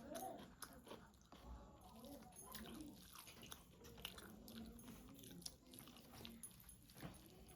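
Faint chewing and biting: mouth sounds of someone eating rice and chicken curry, with irregular soft clicks and smacks.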